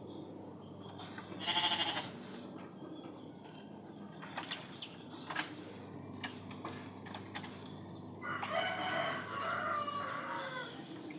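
A rooster crowing: a short call about a second and a half in and a longer crow about eight seconds in, with a few light clicks and knocks between.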